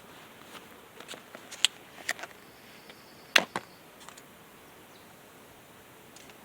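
Creek water running steadily, with scattered sharp clicks and knocks over it; the loudest pair comes about three and a half seconds in.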